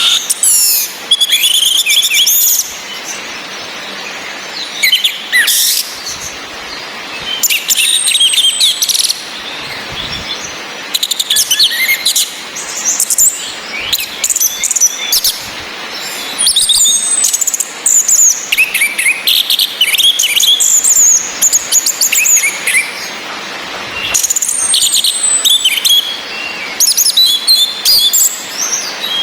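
Orange-headed thrush singing and calling in repeated bursts of varied whistled and rapid chattering phrases, with short pauses between them, over a steady hiss of rain.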